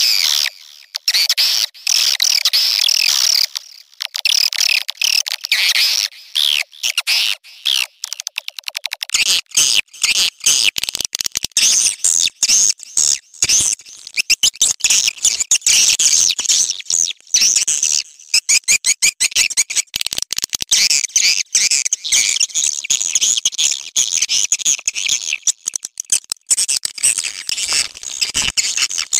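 Swiftlet call recording: a dense, continuous high-pitched chatter of rapid chirps, twitters and clicking pulses, the kind played to lure swiftlets to a nesting house. About nine seconds in the sound becomes fuller.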